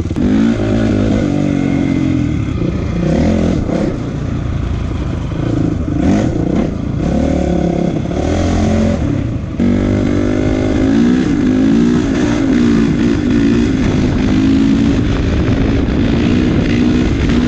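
A Honda CRF450 dirt bike's single-cylinder four-stroke engine being ridden, its pitch rising and dropping back again and again with the throttle.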